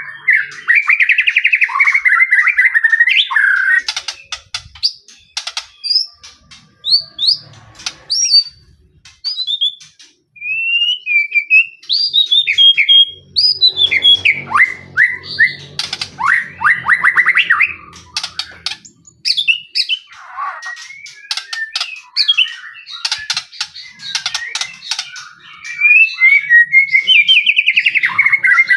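White-rumped shama singing a long, varied song of whistled phrases, fast trills and sharp chirps, with short pauses between bursts.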